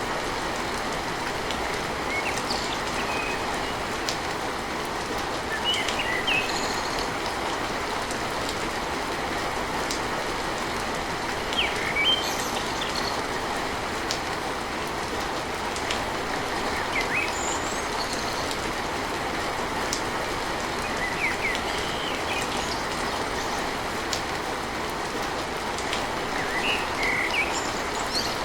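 Steady heavy rain drumming on a tin roof, with scattered short, sharp high drip sounds over the even hiss.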